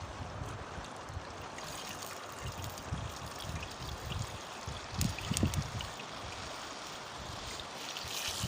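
River water flowing steadily, with uneven low rumbling underneath and a few short clicks about five seconds in.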